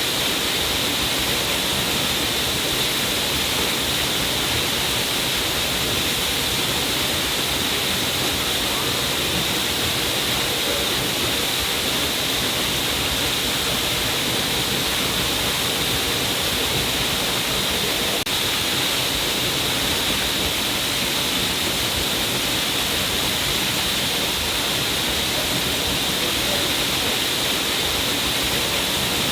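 A stream of water falling down a cliff face, a steady hiss of splashing water that never changes, brightest in the upper range.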